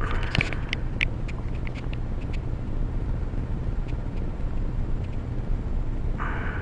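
A run of light clicks and taps in the first couple of seconds, likely a smartphone being handled and its number dialled, over a steady low rumble. About six seconds in there is a short burst of hiss.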